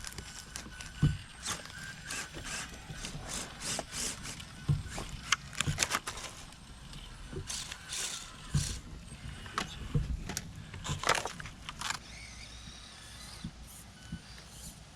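Small RC rock crawler's electric motor and gears whirring in short bursts as it tries to climb an obstacle where it keeps getting stuck. Its tires and chassis clatter and knock against the course many times.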